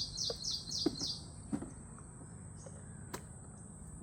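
A songbird giving a quick run of about six high, downward-sweeping chirps in the first second or so, over a steady high-pitched insect drone. A single sharp click sounds about three seconds in.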